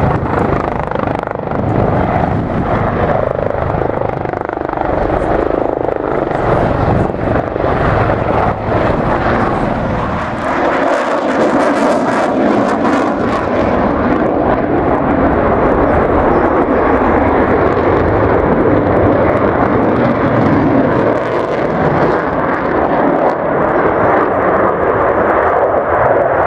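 Display aircraft flying overhead: a loud, steady rushing engine noise that keeps up throughout, with a slight dip about ten seconds in.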